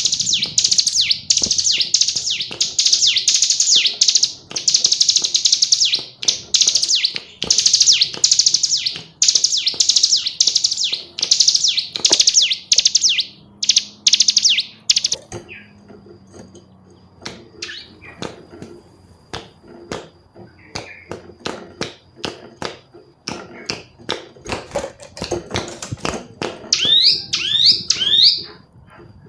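Female ciblek gunung, a prinia, singing a loud, rapid chattering trill of fast sweeping notes in long bursts for about the first half. After that it falls quieter, with scattered clicks, and a short run of sweeping chirps comes near the end.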